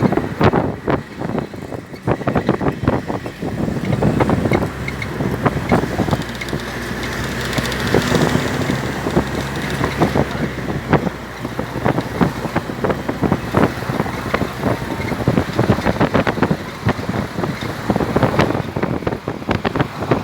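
An engine running steadily, with wind buffeting the microphone and frequent knocks and thumps.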